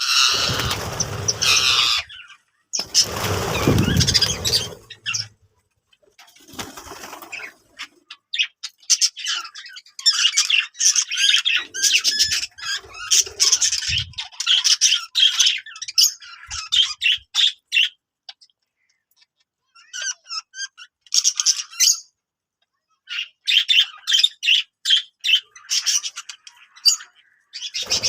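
Budgerigars chattering in long runs of rapid, high chirps and warbles, broken by short silences. In the first five seconds there are two bursts of rustling noise, as of wings flapping.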